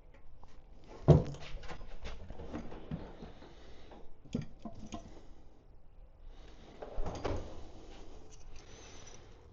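Scraping and clattering from hand work on a motorcycle fuel system part, as a fuel filter housing that snapped off inside it is worked loose. A sharp knock comes about a second in, with smaller knocks near four and seven seconds.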